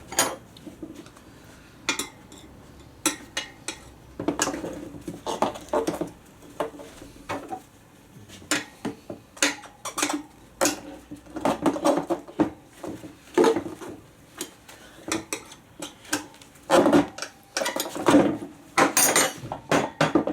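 Irregular metallic clinks, knocks and scrapes as a motorcycle tyre is levered back onto its steel wheel rim by hand, the tyre levers striking and sliding on the rim.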